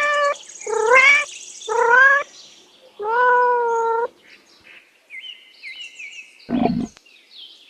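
Cat meowing four times, each meow rising in pitch, the fourth longer and steadier. Then fainter high chirps and a short low burst near the end.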